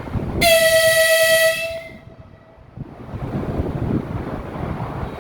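Lastochka electric train (Siemens Desiro RUS) sounding its horn: one long steady blast of about a second and a half, then the rumble of the train running on the rails from about three seconds in.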